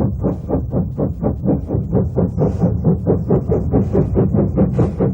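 Steam locomotive working, its exhaust beating steadily at about four to five chuffs a second over a low rumble, with a brief hiss about two and a half seconds in and again near the end.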